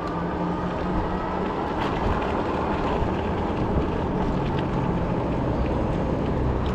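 Ecotric 20-inch fat-tire folding e-bike under way: a steady rolling and wind noise with a low, even hum underneath.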